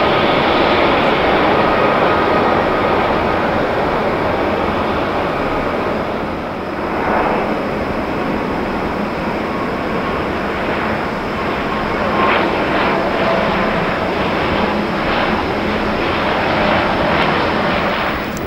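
Airliner engines running loud and steady as a plane passes on takeoff or landing, easing slightly about six seconds in.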